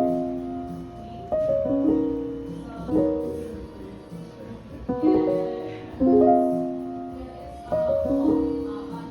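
Background music: a soft piano playing slow chords, each struck and left to fade.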